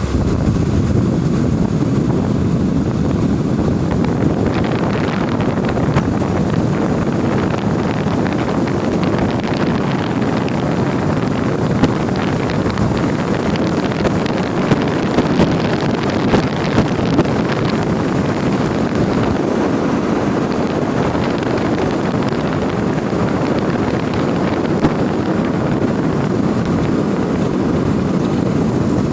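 A 2014 Ford Focus driving, with steady engine and road noise and a few short sharp clicks in the middle.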